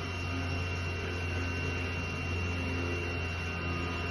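A steady low machine hum, most likely the bee vacuum running, with a rough rubbing or scraping noise over it.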